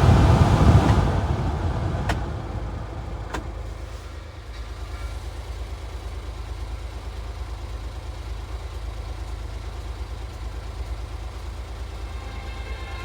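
1996 Honda Acty truck's small three-cylinder engine idling steadily, after a louder stretch that dies away over the first couple of seconds. Two sharp clicks come about two and three and a half seconds in.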